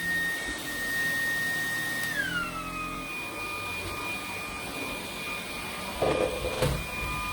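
Dreame T10 cordless stick vacuum running with a steady high motor whine that glides down in pitch about two seconds in and holds at the lower pitch. There is a brief rough burst of noise near the end.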